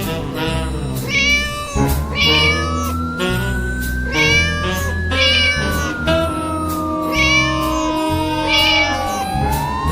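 Cartoon-style music track with a steady bass and cat meows repeating about once a second in time with it. Long sliding tones rise slowly, then fall, behind the meows.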